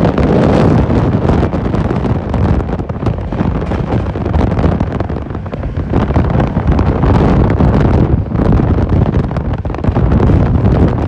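Wind buffeting the microphone over the steady running rumble of a passenger train moving at speed, heard from aboard the train.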